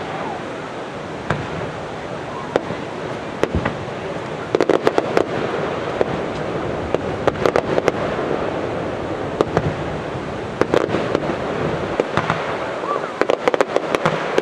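Aerial fireworks shells bursting: sharp bangs and crackles that come in clusters every few seconds over a steady background noise.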